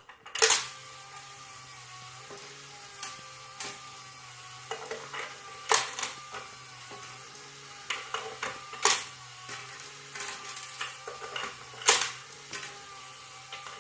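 Scattered sharp clicks and taps, a few loud ones among many lighter ones, over a steady low hum.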